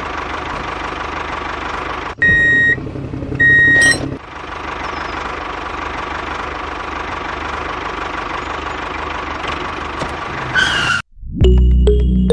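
Steady tractor-engine running sound, broken about two seconds in by two short horn beeps. Music begins near the end.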